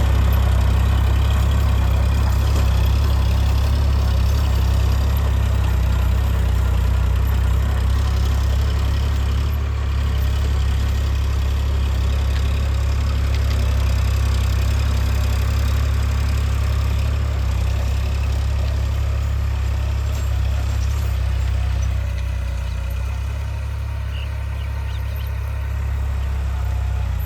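Eicher 551 4x4 tractor's diesel engine running at a steady, even speed, a constant low hum throughout, easing slightly in loudness a little after two-thirds of the way through.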